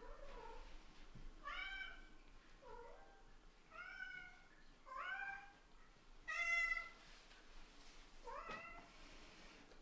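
Kittens meowing: a series of about six short, high-pitched mews a second or so apart, the loudest about six seconds in.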